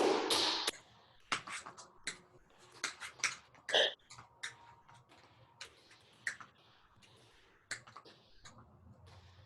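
Tap shoes striking a floor as a dancer runs through a short tap routine: irregular, sharp taps of heel and toe steps, with a louder burst in the first second.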